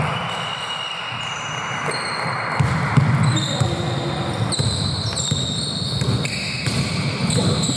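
Basketball game on an indoor court: sneakers squeaking in short high-pitched squeaks on the floor, with the ball bouncing and players' footfalls.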